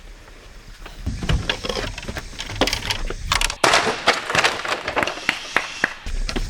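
A dense run of sharp cracks and snaps over a rustling hiss, getting busier about halfway through.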